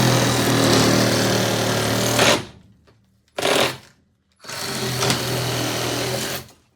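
Reciprocating saw with a long blade cutting into foam: two runs of about two and a half and two seconds, with a short burst between them.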